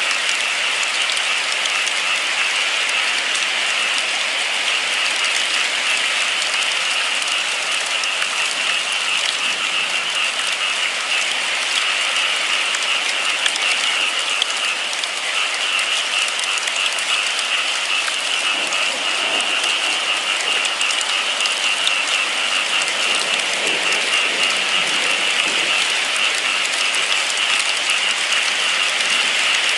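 Steady rain falling and pattering on surfaces, an even hiss that holds at the same level throughout.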